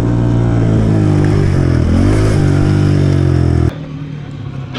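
Small pit bike engine running under throttle, its pitch dipping and climbing back about two seconds in; near the end the engine sound cuts off abruptly to a quieter background.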